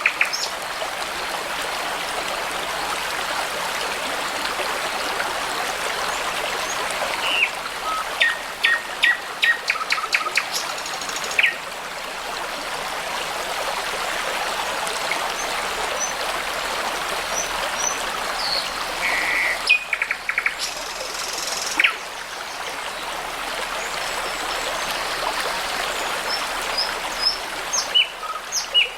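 Brook water running steadily, with songbirds calling over it: a quick run of repeated short notes about eight seconds in, and scattered chirps and whistles around twenty seconds in and near the end.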